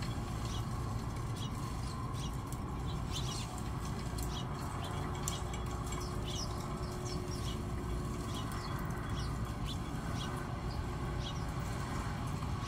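Birds chirping in short, scattered notes over a steady low rumble.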